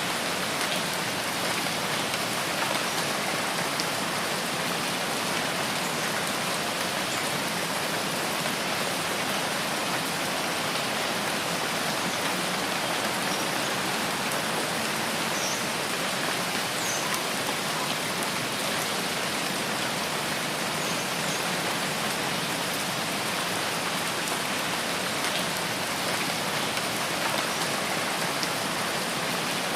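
Steady rain falling in a rainforest, an even, unbroken patter of drops. A few faint, short high chirps sound through it around the middle.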